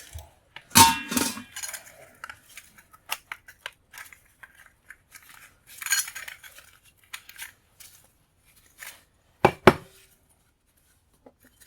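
Brass scrap pieces clinking and clattering as they are handled and dropped together, with a ringing metal clatter about a second in and two sharp knocks in quick succession near the end.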